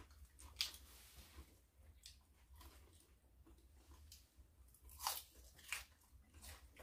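Faint mouth sounds of chewing raw leafy vegetables: a scattering of short, sharp crunches, the loudest two about five seconds in and shortly after.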